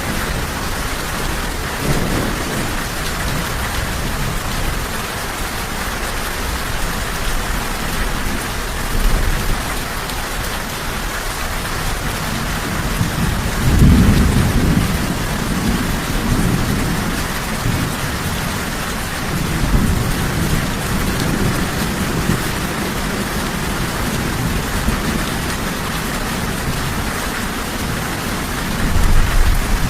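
Steady, heavy rain hissing down, with rolling thunder rumbling low underneath; the loudest rumble comes about halfway through, with further rumbles later and another building right at the end.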